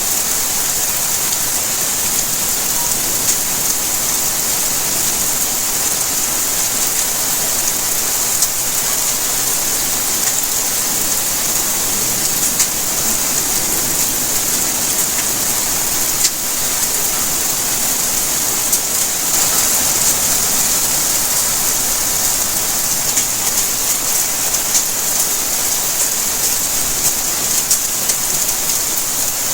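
Steady rainfall, a dense even hiss with many small drop ticks as the rain strikes surfaces.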